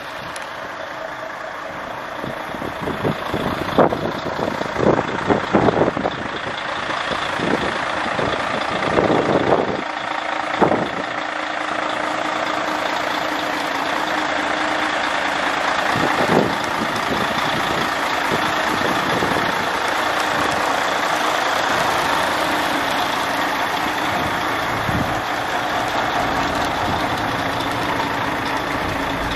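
Truck engine running steadily at idle. Several sharp knocks and clatters come in the first third.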